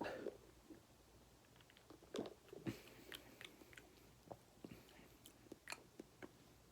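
Faint mouth noises and clicks of a person sipping and swallowing a mixed G Fuel energy drink from a shaker cup, with a brief thump at the start.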